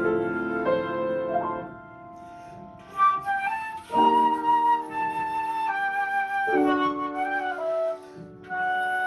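Instrumental music: a flute playing a slow melody of held notes that step from pitch to pitch, with short breaths about two seconds in and again near the end.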